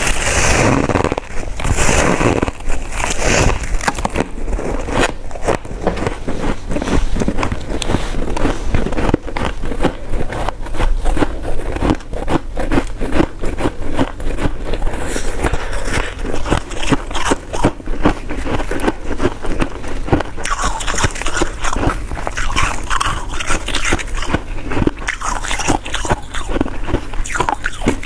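Close-miked biting and chewing of coconut sticky rice cake: a dense, continuous run of small clicks and crackles.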